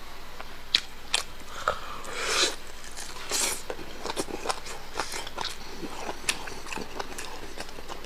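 A person eating close to the microphone: chewing with many short, sharp mouth clicks and smacks, and two longer breathy sounds about two and three and a half seconds in.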